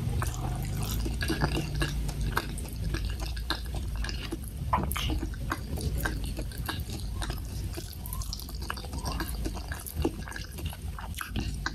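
Close-miked wet chewing and lip-smacking of a person eating saucy boneless chicken feet by hand: a steady run of small, wet clicks and smacks.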